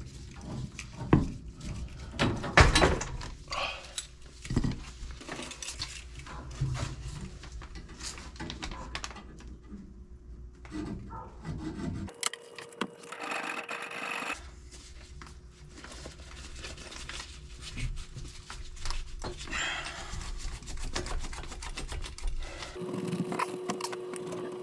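Hand-work noises from plumbing work: irregular scraping and rubbing with scattered sharp knocks, the loudest in the first few seconds.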